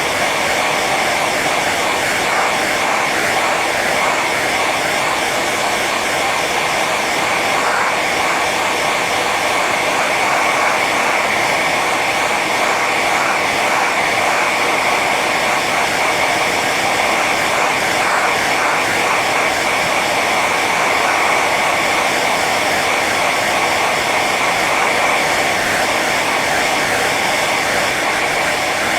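Hair dryer running steadily on its high setting: a constant rush of air with a steady high whine from the motor and fan.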